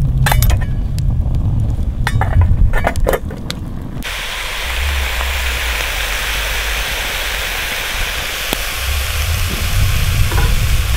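A few clinks and knocks of cookware over a low rumble. About four seconds in, a steady sizzle of food frying in a pan over a campfire takes over.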